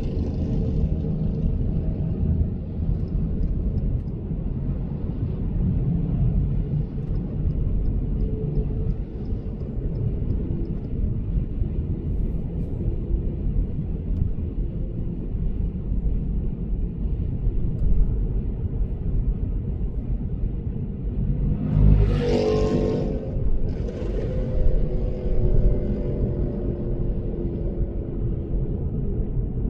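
Lexus GS450h cruising at expressway speed: a steady low road and tyre rumble. About two-thirds of the way through comes a brief louder rush of noise, then a second shorter one.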